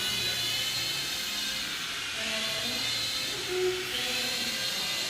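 Toy remote-control helicopter in flight, its small electric motor and rotors whining steadily, the pitch dipping and climbing again a couple of times.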